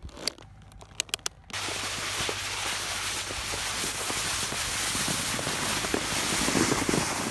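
A few faint clicks, then about a second and a half in a sudden change to a steady hissing scrape with small crackles: a snowboard base sliding over thin, patchy snow.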